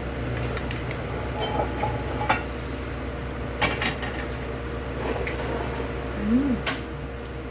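Scattered clinks and taps of cutlery and dishes at a meal, over a steady low hum, with a brief murmur of a voice near the end.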